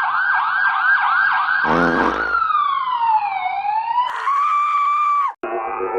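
Police car siren sound effect: a fast yelping warble, then a slow wail sweeping down and back up, then a held high tone that cuts off abruptly about five seconds in. A short noisy blast breaks in about two seconds in. Near the end a lower sound with many tones slides slowly downward.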